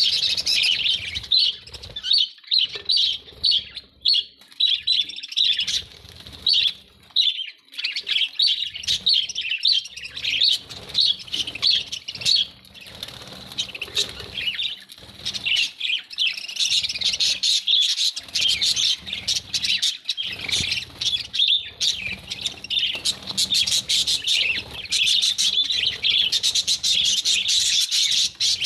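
Budgerigars (Australian parrots) chirping and chattering without a break, many quick, overlapping high calls.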